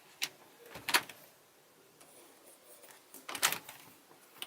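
Motorhome fridge door being opened and shut from its two-way hinges: a few sharp clicks and knocks of the door and its catch, one about a second in and a quick cluster near the end.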